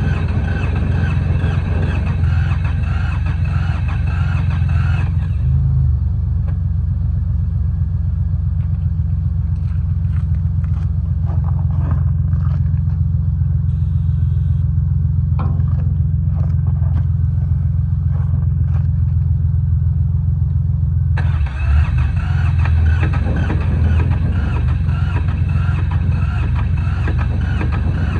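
Yanmar YM146 garden tractor's diesel engine running steadily with a low, even pulse. A harsher, higher clatter over it drops away about five seconds in and comes back about twenty-one seconds in.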